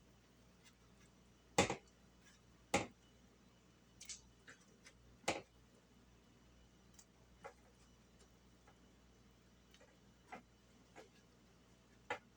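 Irregular light taps and soft plops, about a dozen, a few louder than the rest, as pieces of dumpling dough are handled and dropped into the boiling broth in the pot.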